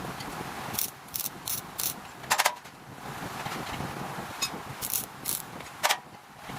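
Irregular sharp metal clinks and knocks, about eight in all, the loudest a quick double strike near the middle, over a steady background noise from a metalworking shop.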